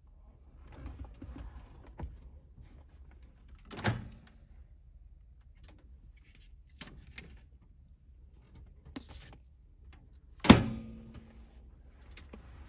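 A series of knocks and clunks from things being handled in a small enclosed space, with light rustling and clicks between. One knock comes about four seconds in, and a sharp, louder thunk with a brief ring comes near the end.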